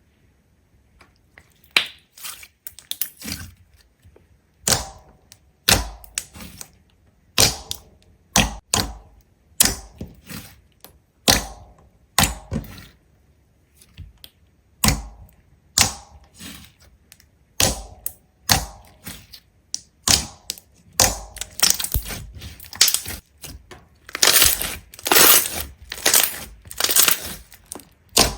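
A series of short, sharp cracks and crunching clicks, roughly one or two a second, coming closer together and louder in the last few seconds.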